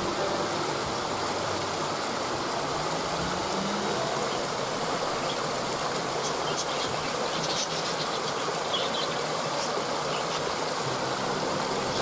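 Waterfall rushing steadily, with faint high bird chirps in the middle.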